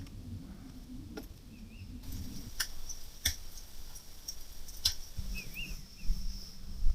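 Two short bird chirps against a low outdoor rumble, with a few scattered sharp ticks.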